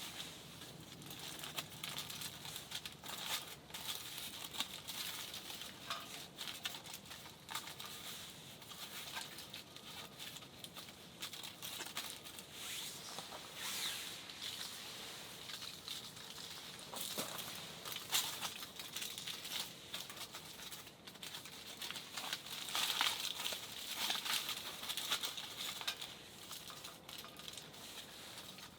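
Plastic packaging crinkling and tearing as it is handled, with scattered small clicks and taps.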